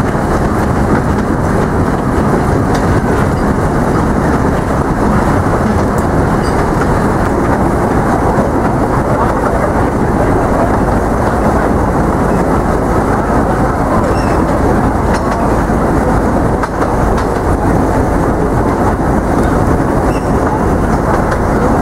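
A 600 mm narrow-gauge forest railway train running steadily, with a continuous noise of wheels on rails heard from an open passenger carriage.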